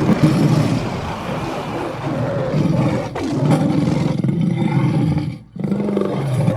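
Kaiju-dragon monster roar sound effect: long, rough, low growling roars, with a short break a little past five seconds before the next roar begins.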